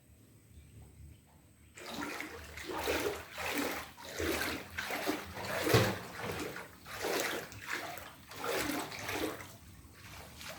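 Floodwater sloshing and splashing in a steady rhythm, roughly once a second, as someone moves through it. It begins about two seconds in, with one louder splash midway.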